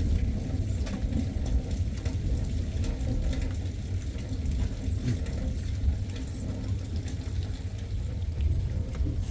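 Heavy rain falling, with scattered drop ticks over a steady low rumble.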